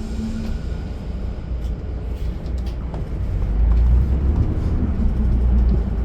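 Low, steady engine and road rumble inside a moving transit bus, growing louder for a couple of seconds past the middle.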